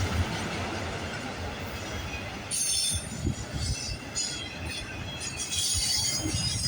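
CN freight train's cars rolling past on the rails with a low rumble; from a couple of seconds in, high-pitched wheel squeal comes and goes in several bursts.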